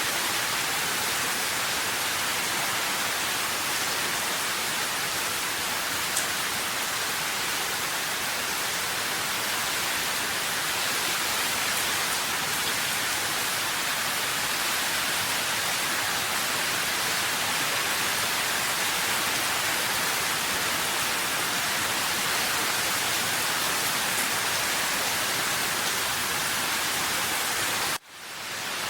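Steady rain, an even hiss of many drops. Near the end it cuts out suddenly and fades back in within a second.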